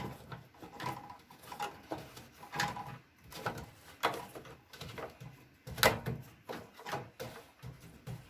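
Fisher & Paykel washing machine's plastic drain-pump filter being fitted back into its housing by hand: a string of irregular light knocks, clicks and scrapes of plastic, a few of them sharper.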